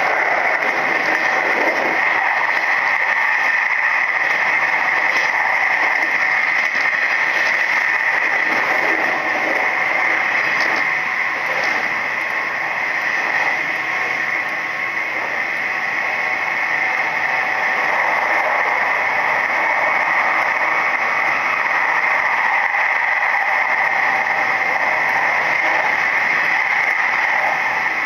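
Nishitetsu 3000 series electric train running at steady speed, its rolling noise heard from inside the passenger car, with a steady high hum through it.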